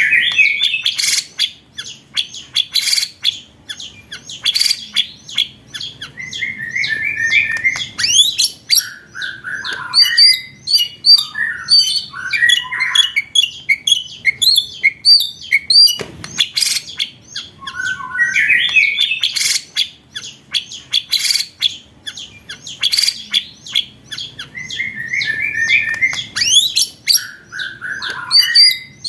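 Recorded songbird song played as a training track for competition birds: dense runs of rapid, sharp chips mixed with rising whistled phrases and warbles, the same sequence coming round again about 18 seconds later like a loop.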